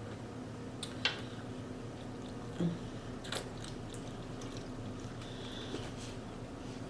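Iced tea being sipped from a glass: a few short clicks of ice against the glass and a brief gulp, over a faint steady hum.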